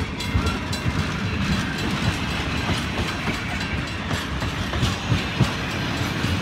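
Passenger train cars rolling past close by: a steady rumble of steel wheels on the rails, with irregular clacks as the wheels cross rail joints.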